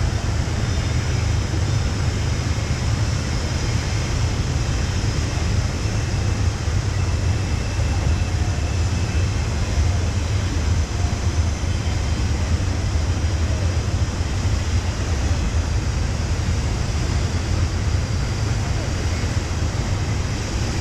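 Steady rush of a whitewater river rapid, a continuous noise with a strong low rumble.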